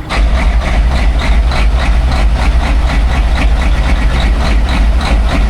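Heavy diesel truck engine idling, a deep steady running sound with an even pulsing beat of about four or five beats a second.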